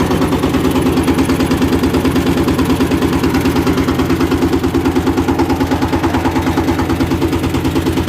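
Power tiller's single-cylinder diesel engine running steadily at low throttle, a fast even chugging.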